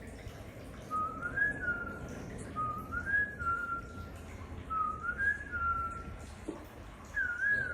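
A clear whistled phrase, a low note gliding up to a higher one and settling on a held middle note, repeated four times about every two seconds.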